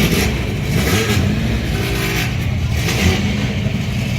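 Race car engines running steadily, with a few short revs.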